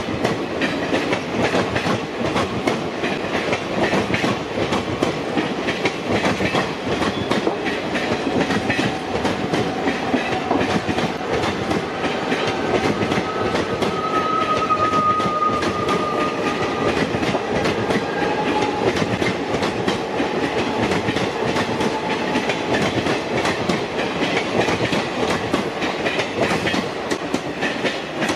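Train running along the track, wheels clattering steadily over rail joints with a constant rushing rumble, and a faint thin wheel squeal around the middle.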